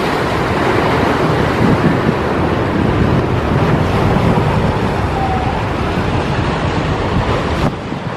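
Ocean surf washing on the shore with wind buffeting the microphone, a steady loud rush with low gusty rumbles. Near the end the higher hiss cuts off suddenly and the sound drops slightly.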